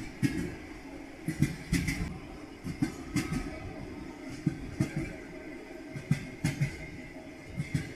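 Railway carriage wheels clacking over rail joints: groups of two or three knocks about every second and a half over a steady rolling rumble.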